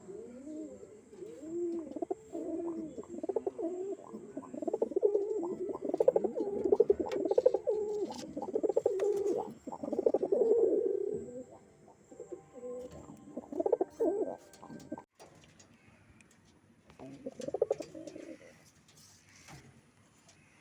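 Domestic pigeons cooing: repeated low, rising-and-falling coos, steady for about the first eleven seconds, then two shorter bouts near the end.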